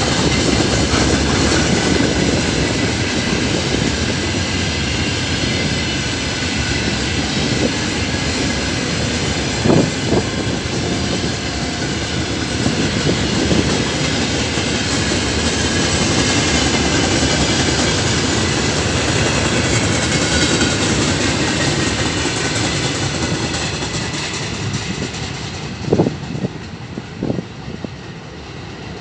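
Wagons of a long freight train rolling past, wheels clattering over the rail joints, with a few sharp knocks; the noise eases off toward the end.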